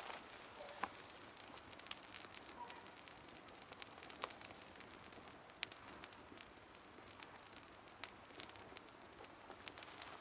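Wood campfire crackling: scattered sharp pops and ticks over a soft hiss, with one louder pop a little past halfway.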